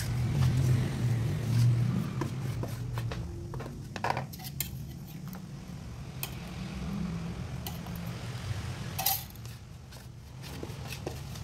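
Metal spoon stirring flour in a plastic mixing bowl: soft scraping through the flour, with sharper clinks against the bowl about four seconds in, again shortly after, and loudest near the end.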